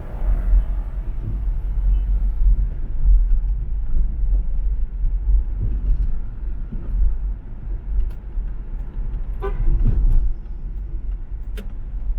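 Steady deep rumble of a car driving in traffic, with one short car horn honk about nine and a half seconds in.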